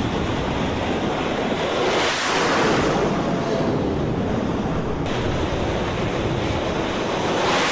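Jet aircraft engines running on an aircraft carrier's flight deck: a loud, steady rush of noise that swells about two seconds in.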